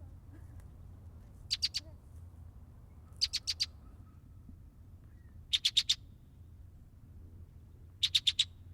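Male red-winged blackbird giving short, rapid chattering bursts of four or five clicking notes, four bursts about two seconds apart, over a faint steady low hum.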